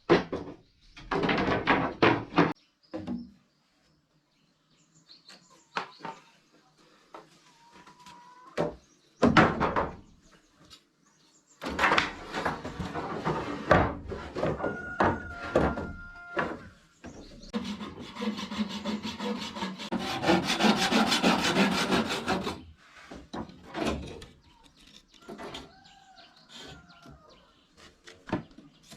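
Hand work on wood: scattered knocks and short scrapes, then about five seconds of fast, continuous rubbing strokes, like rasping or sawing timber.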